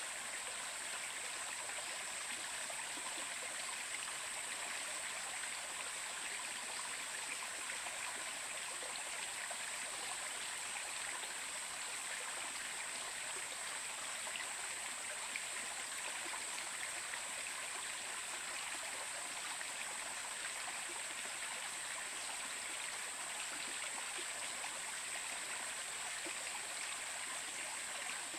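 A stream running steadily, with an even rush of water and a steady high hiss on top.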